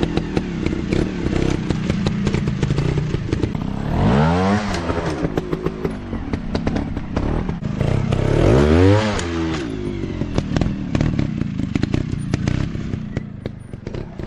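Dirt bike engine running and being revved, its pitch sweeping up and back down about four seconds in and again about eight to nine seconds in, with rapid clattering clicks throughout.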